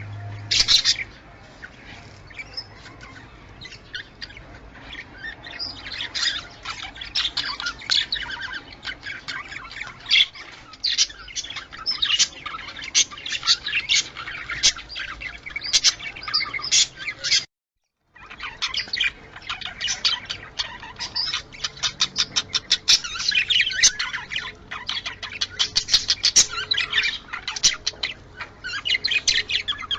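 Budgerigars chattering in a continuous, rapid warble of high chirps and squawks, the mating chatter of breeding budgies. The sound drops out suddenly for a moment just past halfway, then picks up again with runs of quick repeated notes.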